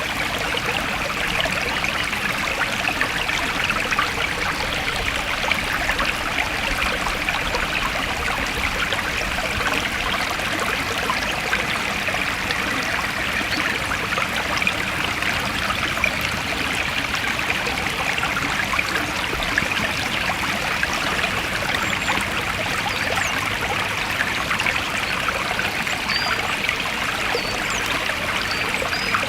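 Forest stream flowing and trickling steadily, with a few faint high chirps near the end.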